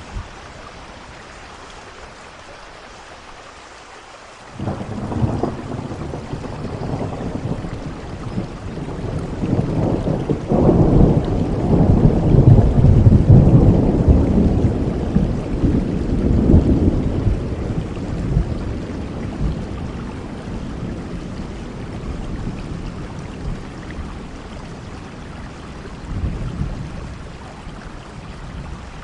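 Steady rain with a long roll of thunder. The thunder breaks in suddenly about four seconds in, grows to its loudest midway, then rumbles slowly away, with a smaller rumble near the end.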